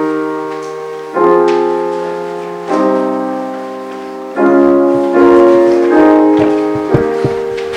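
Piano playing slow, sustained chords, a new chord struck about every second and a half and each left to fade. A few short knocks come near the end.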